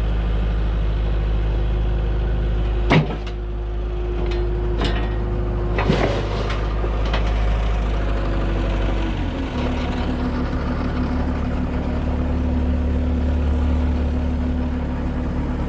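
Skid steer's diesel engine running steadily while the winchbox is dug into the ground, with two sharp metallic knocks about three and six seconds in. The engine note changes about nine seconds in.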